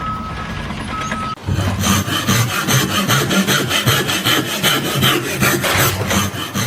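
Fast, even rasping strokes, about four a second, starting about a second and a half in. Before them come two short beeps over steady noise.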